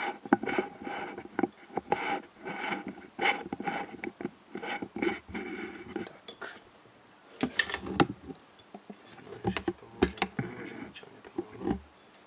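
Hand-handling noise at a workbench: a run of repeated scraping or rubbing strokes, then scattered sharp clicks and knocks as something is handled on the welder's circuit board.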